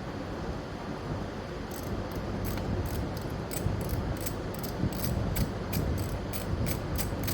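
Hand ratchet clicking in quick, even strokes, about three to four a second, starting about a second and a half in. It is backing out the small 8 mm bolt on a scooter's front wheel cover.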